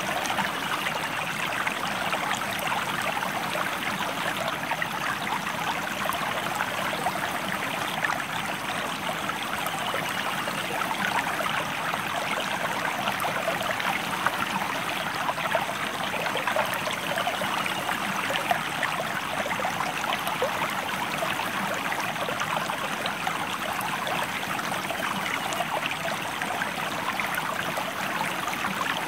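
Stream water flowing and babbling over rocks: a steady, unbroken rush of fine splashing.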